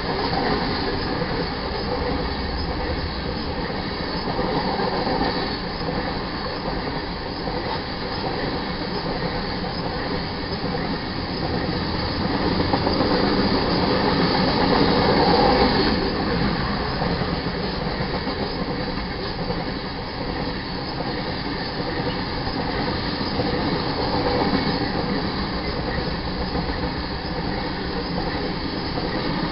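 Coal hopper cars of a BNSF freight train rolling past: a steady noise of steel wheels on the rails. It grows louder for a few seconds about halfway through.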